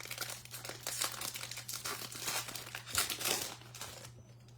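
Foil wrapper of a trading-card pack crinkling as it is torn open. The crackling goes on for about four seconds, peaks near the end and then stops.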